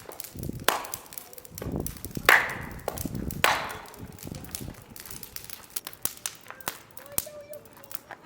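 Chopping: three loud, sharp strikes over about three seconds, followed by lighter taps and small clicks.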